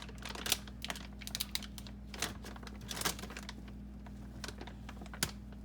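Scattered light clicks, taps and crinkling rustles of food and packaging being handled in an open refrigerator, over a steady low hum. The handling is busiest in the first three seconds and thins out to a few isolated clicks after.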